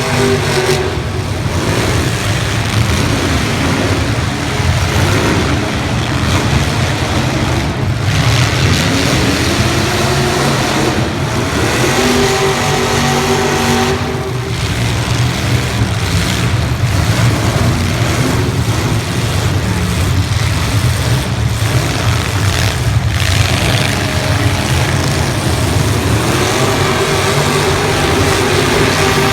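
Several demolition derby cars' engines running and revving, their pitch rising and falling over one another.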